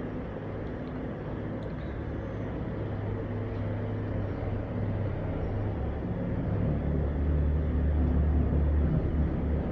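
Low, steady machine rumble with a deep hum, growing louder about seven seconds in.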